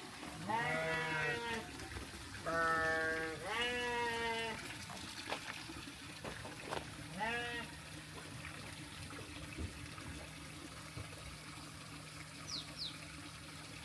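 Livestock bleating four times, the calls wavering in pitch; the last call, about seven seconds in, is short.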